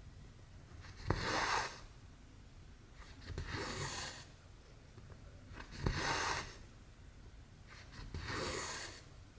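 Cotton embroidery thread drawn through cross-stitch fabric four times, about every two and a half seconds: each pull a short rasping hiss, two of them opening with a sharp click.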